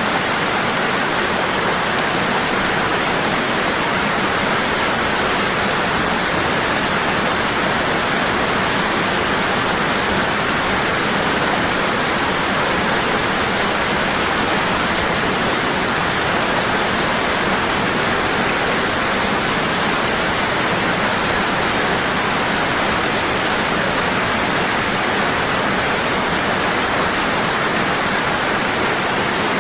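Waterfall, water falling hard and steady in an even rushing noise, unchanging throughout.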